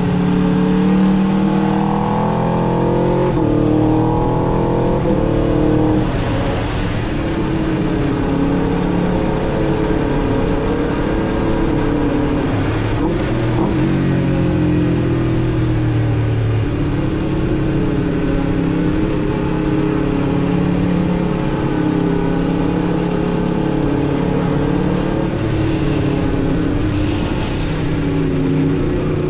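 Aprilia RSV4 RR's V4 engine through its stock exhaust, accelerating with a rising note that breaks off and drops back several times in the first six seconds as it shifts up. It then settles into steady cruising revs with small rises and dips.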